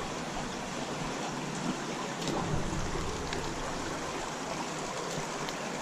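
Creek water flowing in a steady rush, with a few faint clicks over it.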